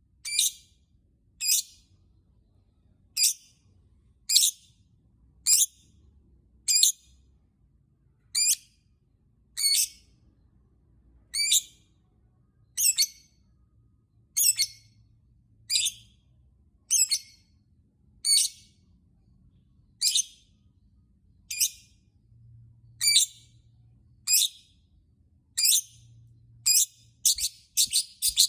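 Lovebird calling in short, sharp, high chirps, one at a time, about one every second, coming faster near the end.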